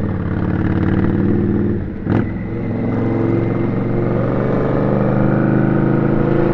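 Indian Scout motorcycle's V-twin engine running under way, heard from the rider's seat. About two seconds in it dips briefly with a sharp click, then pulls on steadily.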